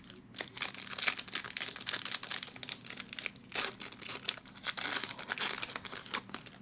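Plastic wrapper of a 2011-12 Upper Deck SP Authentic hockey card pack being torn open and crumpled by hand, a run of crackling crinkles.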